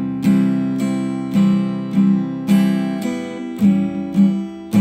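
Acoustic guitar strummed in a steady down-and-up pattern, starting on a C chord, with a chord change about three and a half seconds in.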